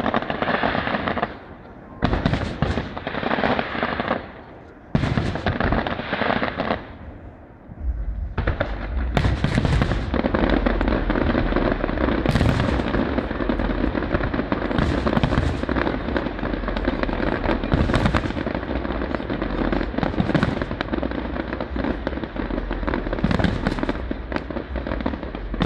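Aerial fireworks display: a few separate shells going off with short pauses between them, then from about eight seconds in a dense, continuous barrage of many shells bursting at once, with a deep rumble underneath.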